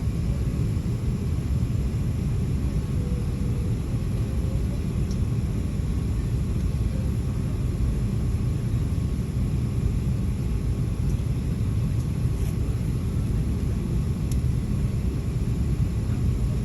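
Steady low rumble inside the cabin of an Airbus A380 on the ground, with a faint even hiss above it.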